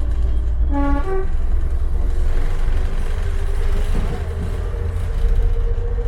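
Heritage train running with a low rumble, a short horn toot about a second in, then a long steady tone held for several seconds.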